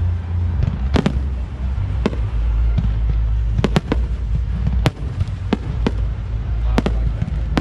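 Fireworks bursting overhead: sharp bangs at irregular intervals, about half a dozen loud ones, two of them close together near the middle, over a steady low rumble.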